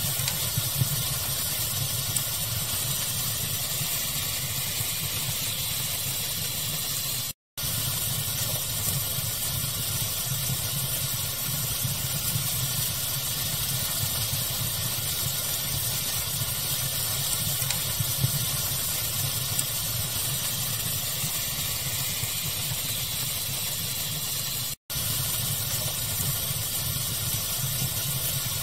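Steady pink-noise hiss blended with a wood fire crackling, with a few small pops. The sound cuts out to silence for a moment twice, about seven seconds in and near the end.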